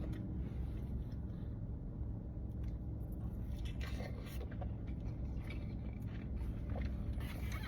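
Faint chewing and a few small clicks and scrapes from eating sushi with chopsticks, over a steady low hum.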